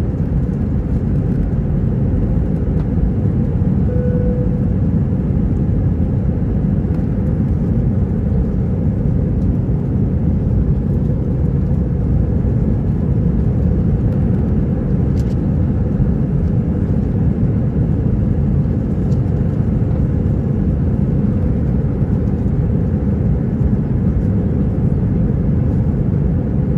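Cabin noise inside an Airbus A321-231 climbing out after takeoff: its IAE V2500 engines at high power and the rushing airflow make a steady low drone.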